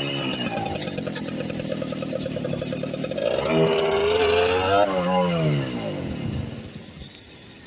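Small motorcycle engines running: the engine revs up about three seconds in, then its pitch falls and the sound fades away near the end.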